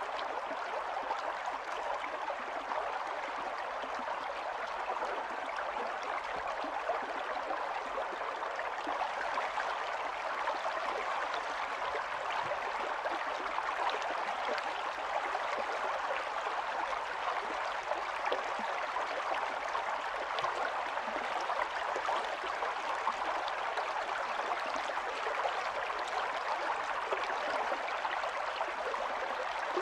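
Stream water running and gurgling steadily over stones, an even rushing burble with fine splashy detail.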